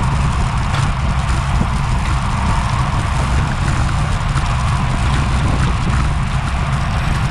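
Steady wind noise buffeting an action camera's microphone on a bicycle at racing speed, a heavy low rumble with a hiss of tyre and road noise above it.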